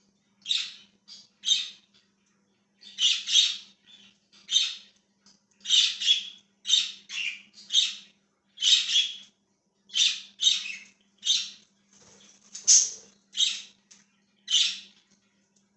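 Pet budgies (budgerigars) calling: a string of short, loud chirps and squawks, often two or three in quick succession, with brief pauses between the runs.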